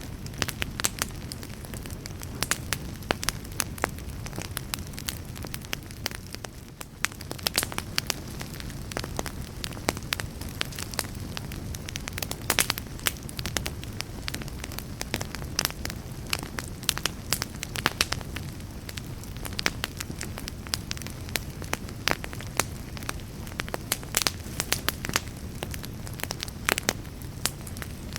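Wood fire burning in a fireplace: a steady low rush of flame with frequent sharp crackles and pops.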